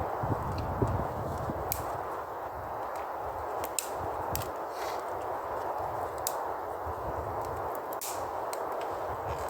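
Campfire burning with a steady hiss and low rumble, broken by sharp pops of burning wood every second or two.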